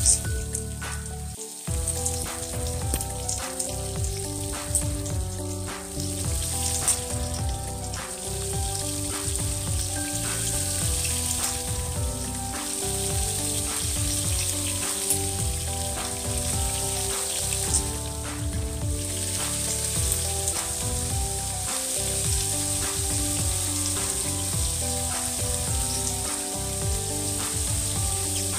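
Raw chicken pieces sizzling in hot cooking oil in a nonstick wok, a steady hiss with occasional clicks as tongs turn the pieces. Background instrumental music plays underneath.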